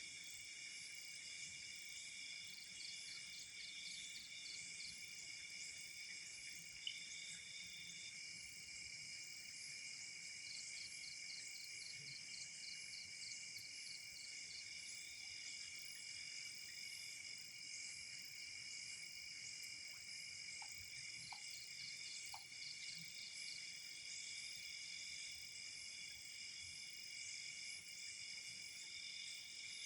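Night insect chorus of crickets: several steady high-pitched trills, with a faster pulsing trill that comes and goes. One sharp click sounds about seven seconds in.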